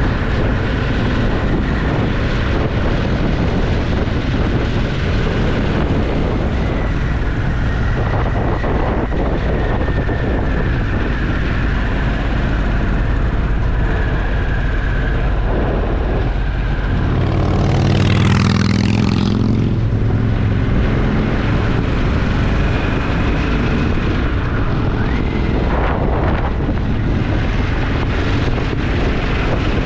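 Motorcycle engine running at road speed under a steady rush of wind. About 17 seconds in, a louder engine note swells for two to three seconds, then fades back.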